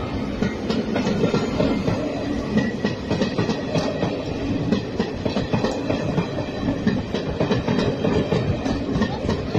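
Passenger coaches rolling past close by, their wheels clattering and clicking on the track in a steady run of knocks.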